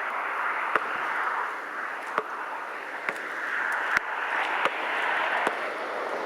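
Steady wind noise with sharp, irregular knocks of a basketball about once a second.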